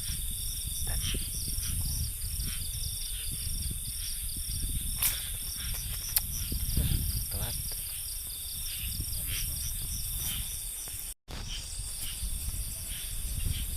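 Night insects, crickets chirping in a steady even rhythm over a constant high-pitched insect drone, with low rumbling handling noise and a couple of sharp clicks. The sound cuts out for an instant near the end.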